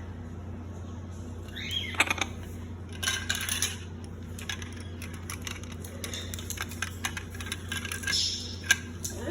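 Baby parrots playing with hard plastic toys: an irregular clatter of small sharp clicks and rattles as beaks and toys knock together, with one short rising chirp about a second and a half in. A steady low hum runs underneath.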